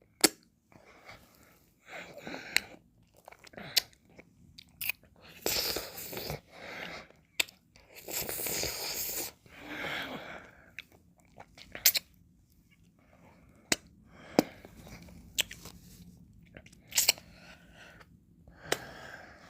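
Close-miked mouth sounds of eating ice cream: wet licking, slurping and chewing, with sharp lip and tongue clicks scattered throughout and a few longer slurps of about a second each.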